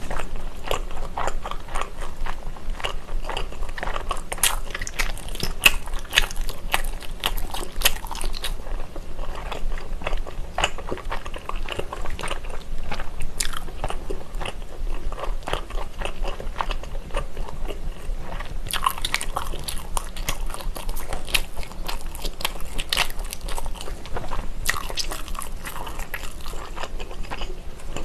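A person chewing Korean rest-stop skewer food close to the microphone with the mouth closed: continuous chewing full of small sharp clicks, busier in a few stretches.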